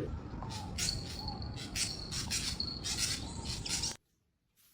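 Rapid high-pitched chirping in short repeated pulses over a low background rumble, cutting off abruptly about four seconds in.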